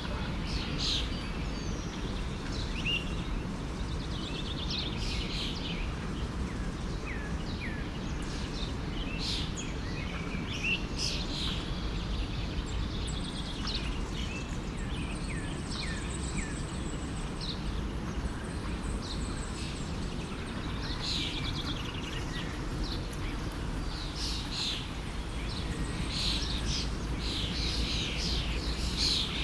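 Many songbirds chirping and trilling over the steady low rush of a forest stream.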